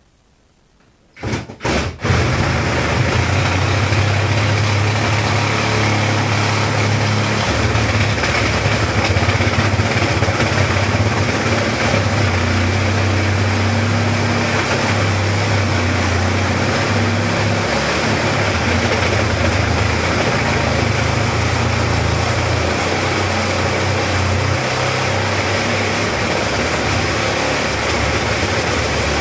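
Power tool blipped twice about a second in, then running steadily, its low hum shifting in strength as it works through the refrigerator's cabinet.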